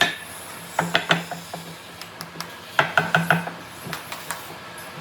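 Sharp knocks and clinks of tools being handled or tapped on wood, in two short clusters, one about a second in and one about three seconds in, over a faint steady hum.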